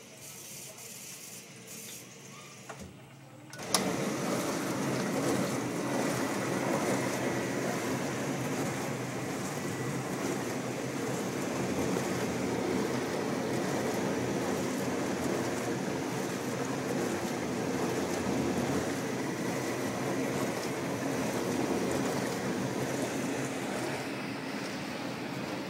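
Metrowealth WP5B countertop dishwasher: after a few quieter seconds, a click about four seconds in as its wash pump starts, then a steady rush of water spraying inside the tub over a low pump hum.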